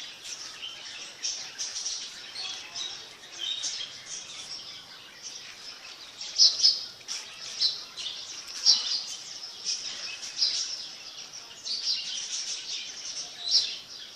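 Birds chirping: many short, high chirps, a few of them louder about halfway through and near the end.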